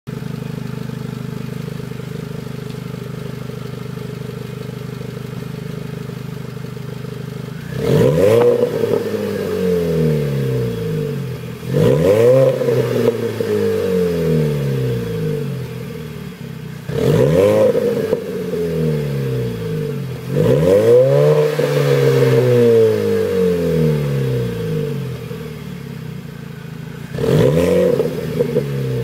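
Supercharged Mini Cooper S GP four-cylinder, fitted with a 15% smaller supercharger pulley, running through a John Cooper Works cat-back exhaust with the resonator removed. It idles steadily for about eight seconds, then gives five quick free revs a few seconds apart, each climbing sharply and dropping back to idle.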